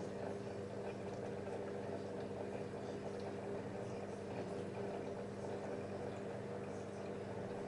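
LG F10A8HDS5 washing machine running mid-cycle: a steady hum with water sloshing in the drum.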